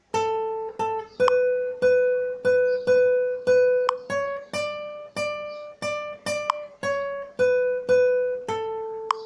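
Acoustic guitar played note by note: a slow plucked melody with one note about every half second, each dying away before the next. The last note is left ringing.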